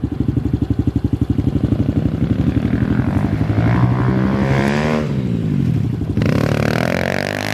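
Pit bike's single-cylinder engine chugging at low revs, then revving up as the bike accelerates, backing off about five seconds in, and revving up again near the end.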